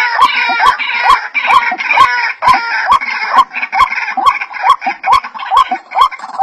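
White-breasted waterhen calls: a steady rhythmic series of short rising notes, about two a second, each starting with a sharp click, over a dense layer of overlapping higher calls.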